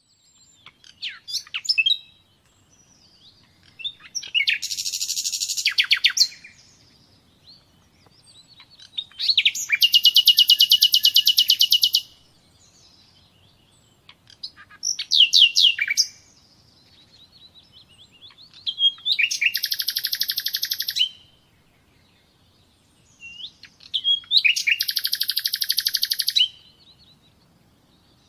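A songbird singing in repeated phrases, about one every five seconds. Each phrase is a few sharp, quick notes followed by a fast, even trill lasting two to three seconds.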